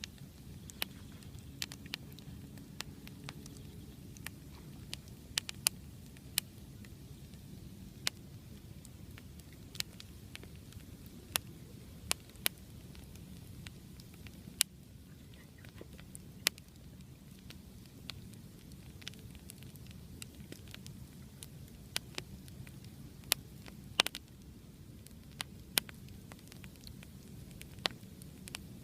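Wood campfire crackling, with sharp irregular pops about once a second over a low steady rumble.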